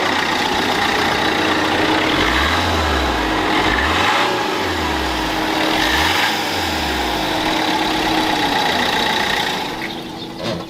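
Suzuki Swift's 1.3-litre turbo diesel engine running and being revved, its pitch rising and falling back two or three times, then dropping away near the end.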